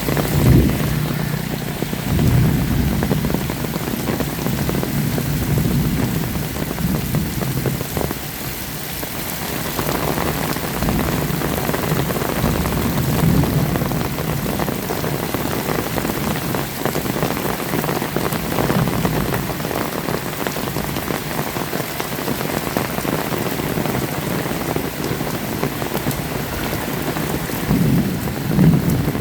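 Heavy rain falling steadily, with low rumbles of distant thunder that come and go.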